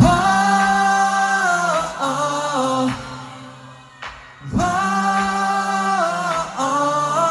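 Voices singing two long held phrases with little or no instrumental backing, as in a concert sing-along; each phrase falls off toward its end before the next begins.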